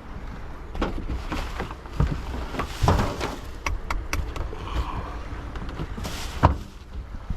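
Wind rumbling on the microphone, with several knocks and bumps; the loudest knock comes about six and a half seconds in.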